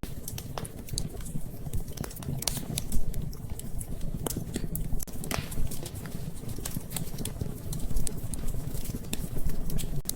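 Wood fire crackling in a fireplace: irregular sharp crackles and pops over a low steady rumble, with one louder pop about three seconds in.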